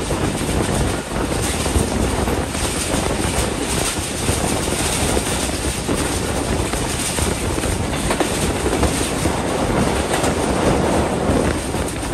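Passenger train running at speed, heard from an open door of a coach: a steady rumble of wheels on the rails.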